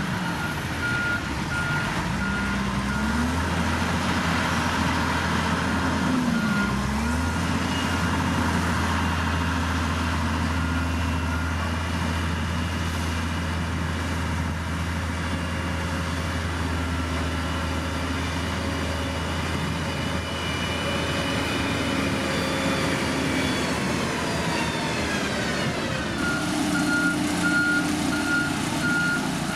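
Heavy construction machine's engine running with its reversing alarm beeping at an even rate of about two beeps a second; the alarm drops out for long stretches in the middle and comes back near the end. About three-quarters of the way through, the engine note falls as the revs drop.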